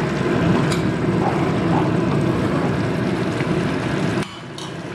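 Heavy rain pouring down: a dense, steady noise that drops suddenly about four seconds in.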